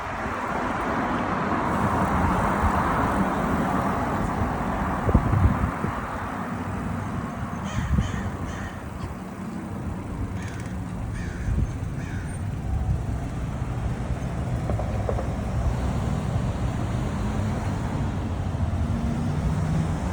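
Wind and road traffic noise from a moving bicycle, with a bird cawing a few times in two short runs partway through.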